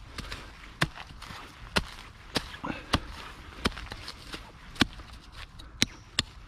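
A digging tool chopping into the ground: about eight sharp strikes, roughly one every second or less, as a metal detector target is dug out.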